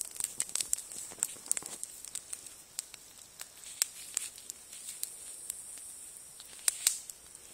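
Wood campfire crackling: irregular sharp snaps and pops over a faint hiss, with a couple of louder pops.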